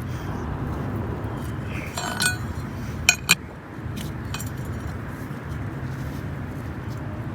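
Two sharp, ringing metallic clinks close together about three seconds in, with a fainter clink just before, over a steady low background noise.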